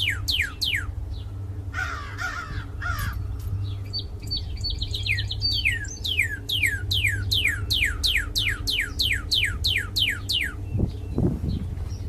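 Northern cardinal singing: rapid series of loud downslurred whistles, about four a second, broken by a harsh call about two seconds in and a short phrase of quick high notes before the whistled series resumes and stops near the end. A steady low hum sits underneath.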